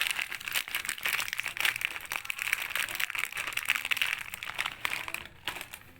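Plastic snack packet crinkling and rustling in a dense run of fine crackles, fading out near the end.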